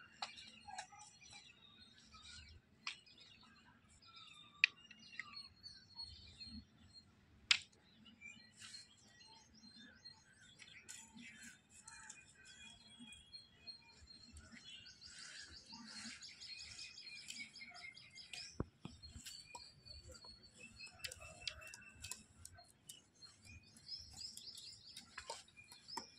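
Birds chirping and twittering on and off throughout, faint, with a few sharp clicks standing out.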